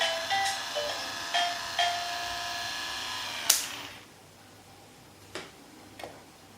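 Electronic sound effect from a VTech Go Go Smart Friends playhouse toy's speaker: a run of short electronic tones over a steady hum, ending with a sharp click about three and a half seconds in. Then two faint clicks of the toy's plastic parts.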